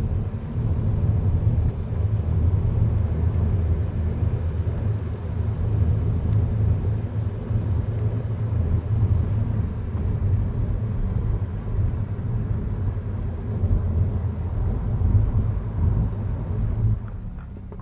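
Car driving, heard from inside the cabin: a steady low rumble of engine and tyre noise. It drops off sharply near the end as the car slows.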